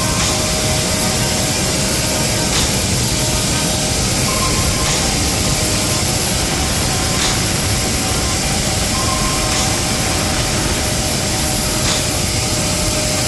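Jet turbine running steadily, a loud even rush with a constant high whine. A short beep repeats about every five seconds.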